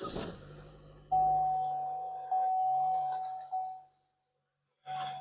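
2015 Chevy Cruze being started: a brief start-up noise, then a dashboard warning chime sounding at one pitch four times, about a second apart.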